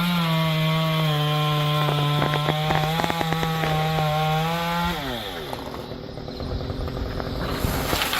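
Two-stroke chainsaw held at full throttle, a high steady engine pitch with crackling clicks as it cuts through wood. About five seconds in the throttle is released and the pitch falls away, and the saw runs on more quietly.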